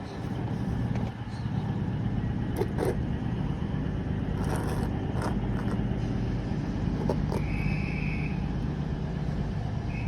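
A Class 220 Voyager diesel multiple unit idling at the platform: its underfloor Cummins diesel engines give a steady low hum, with a few sharp clicks. Twice, near the end, a short high tone sounds.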